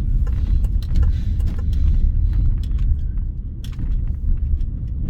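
Car road noise heard from inside the cabin while driving: a steady low rumble with scattered light ticks.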